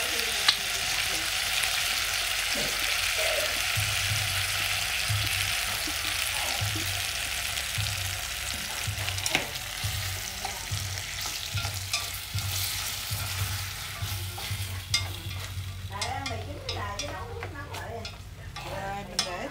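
Jackfruit and lotus stems sizzling in oil and soy sauce in a stainless steel pot, with chopsticks clicking against the pot as they are stirred. The sizzle fades over the last few seconds.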